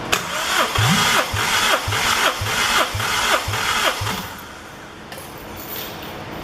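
Honda B20B four-cylinder engine being cranked over by its starter motor without firing, with a regular pulse about twice a second. The cranking stops after about four seconds.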